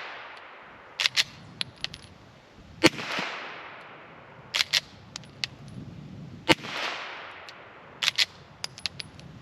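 Suppressed 9mm Glock 19 pistol with a B&T Hush Puppy wipe suppressor, slide locked, firing Speer G2 subsonic hollow points. There are about eight sharp shots at an irregular pace, some in quick pairs, each with a brief decaying echo, and fainter clinks between them.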